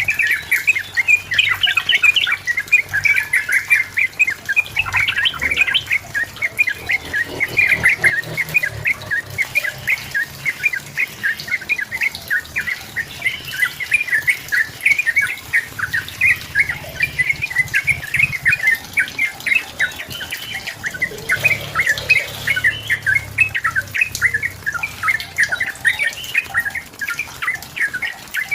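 Yellow-vented bulbul (trucukan) in full song: a long, unbroken chatter of short, rapid notes, several a second, without pause.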